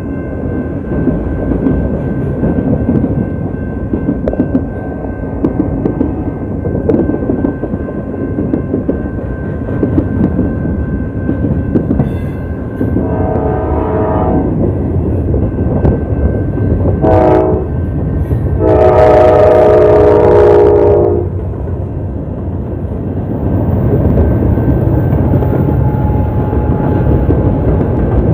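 Diesel freight train rolling through a grade crossing with a steady rumble. About halfway through, a locomotive air horn sounds two short blasts and then a longer, louder one.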